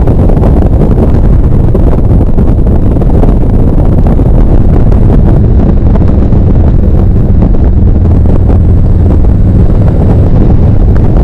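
Harley-Davidson V-twin motorcycle running steadily at riding speed, with heavy wind rushing over the microphone.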